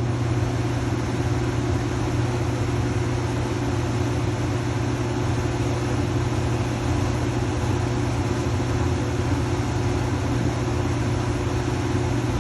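Furnace blower fan running steadily with a low hum and an even rush of air. It is running because the control board's red and yellow thermostat terminals are jumpered to call for cooling, which shows the board and blower working.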